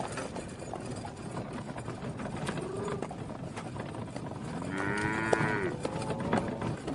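A cow mooing: a short low call about two and a half seconds in, then a longer, fuller moo rising and falling about five seconds in, over a steady background hiss.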